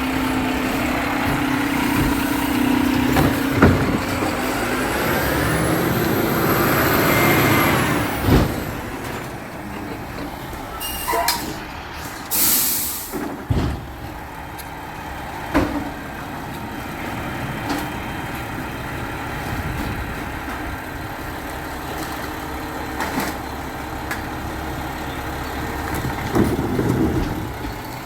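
Garbage truck engine running and revving, with a whine that rises and then falls. About twelve seconds in, the air brakes let off a hiss about a second long, and there are a few sharp metallic knocks before the engine settles back to a steadier run.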